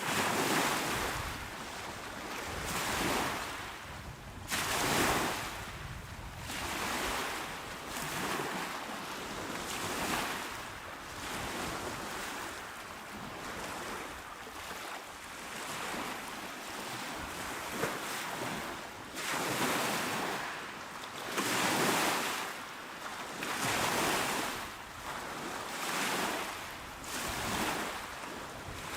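Small waves breaking and washing onto a shore, a steady hiss of surf swelling and fading every two to three seconds.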